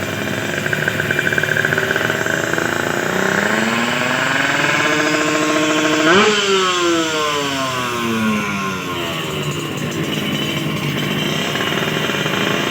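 Drag-racing motorcycle engine revved while stationary during tuning. The pitch climbs for about three seconds, peaks about six seconds in, then falls back as the throttle is released and settles.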